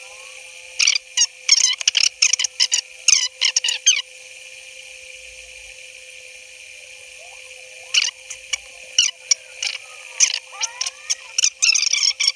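A video's sound track played back sped up, turning it into clusters of rapid high-pitched squeaks and chirps over a steady hum. The squeaks stop for about four seconds midway, then resume.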